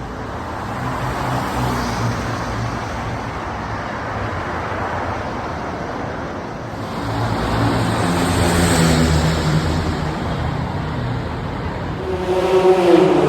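Car engines running with road and traffic noise. The sound swells about seven seconds in, and near the end a louder engine note falls in pitch.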